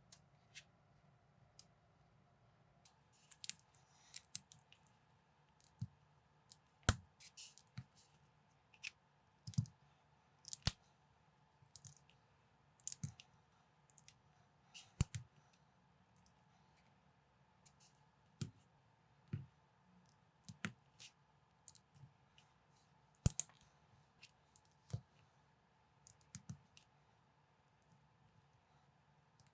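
Plastic Lego-compatible building bricks being handled and snapped together: irregular sharp clicks, about one or two a second, with a few louder snaps.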